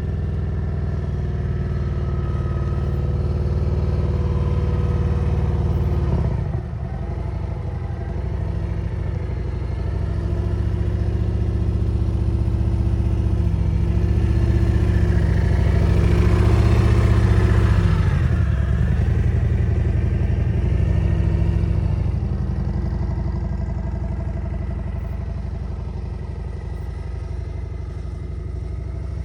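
Motorcycle engine running at low speed, its pitch rising and falling with the throttle. It drops off briefly about six seconds in and is loudest a little past halfway.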